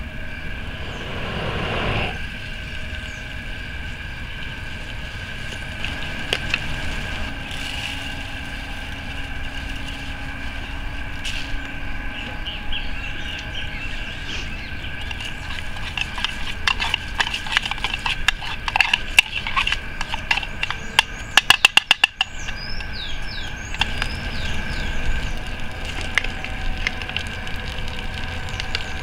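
Small twig campfire under a cooking mug: scattered crackles and clicks that thicken in the second half into a fast run of sharp clicks, over a steady high-pitched outdoor drone, with a few short chirps near the end.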